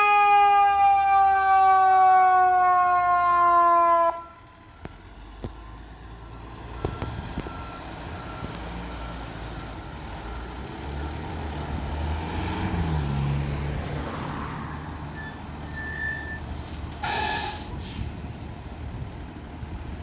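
Fire engine air horn sounding one long blast whose pitch sinks slowly before it cuts off about four seconds in. The truck's engine rumbles on after it and swells partway through, and a short hiss comes near the end.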